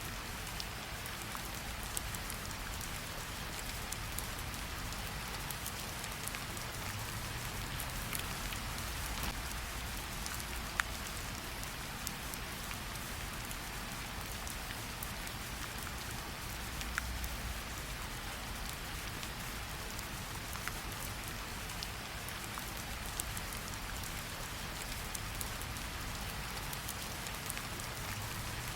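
Steady rain falling, an even hiss with scattered sharper ticks of single drops, one standing out about eleven seconds in.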